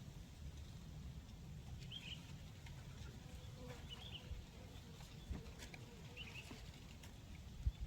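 Quiet outdoor background with a low rumble and three faint, short, high bird chirps about two seconds apart. There is a soft knock near the end.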